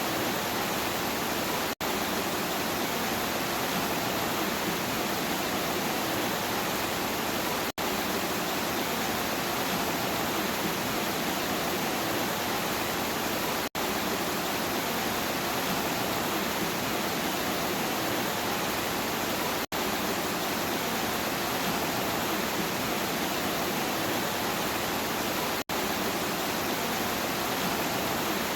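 Steady heavy rain, an even hiss of falling water, broken by a split-second dropout about every six seconds.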